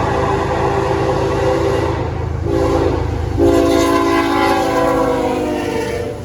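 Diesel freight locomotive's multi-chime air horn sounding the close of the grade-crossing signal: a long blast, a short blast, then a final long blast that slides down in pitch, over the steady low rumble of the passing train.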